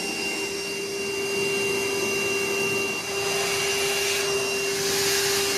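Vacuum cleaner motor running steadily with a constant whine over a rushing hiss; the hiss grows a little brighter about three seconds in.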